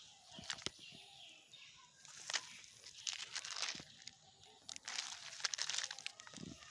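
Rustling and crackling as a person moves through garden undergrowth picking up plastic litter. It comes in bursts about two, three and five seconds in, with scattered sharp clicks between them.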